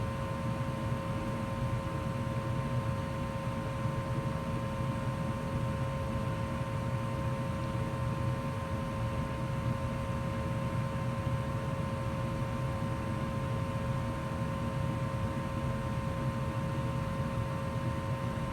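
2004 Goodman gas furnace running steadily in heat mode: an even rush of air and a low rumble, with a constant hum in two steady tones.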